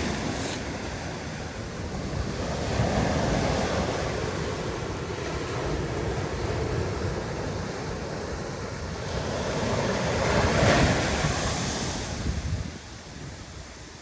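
Ocean surf breaking and washing up the beach in rising and falling swells, loudest about ten to eleven seconds in, then dropping away sharply near the end. Wind rumbles on the microphone.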